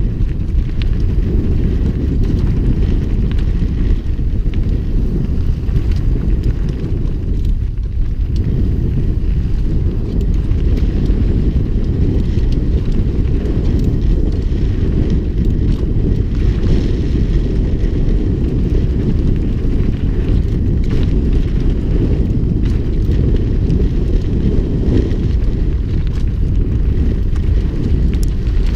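Mountain bike descending a downhill trail: wind buffets the rider's camera microphone with a steady low roar, and faint clicks and rattles from the bike run through it.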